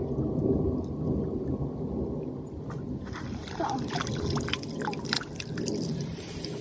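A low steady rumble, then from about halfway water splashing and dripping in quick irregular strikes as a hand net is lifted out of a creek.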